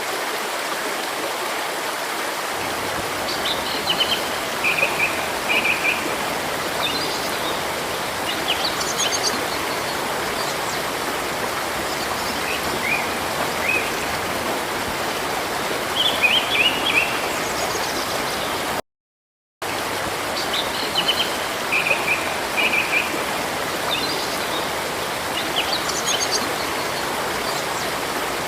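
A stream running steadily, with small birds chirping in short bursts of notes now and then over the water. The sound cuts out completely for under a second about two-thirds of the way through.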